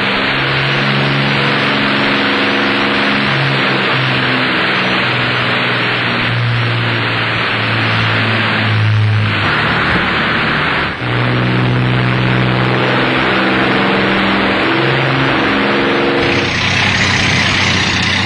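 Rolls-Royce Merlin V12 aero engine running under power on a test bed, a loud, steady roar with held low tones underneath. Near the end the low tones drop away and the roar turns brighter.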